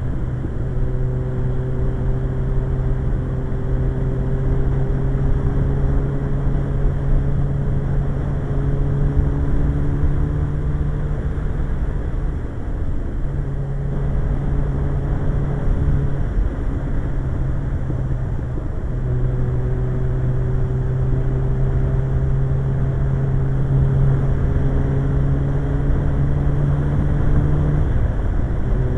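Suzuki GSX-R 1100 inline-four motorcycle engine running at road speed, heard from the rider's position with heavy wind rumble. The engine note climbs slowly and drops away briefly a few times before picking up again.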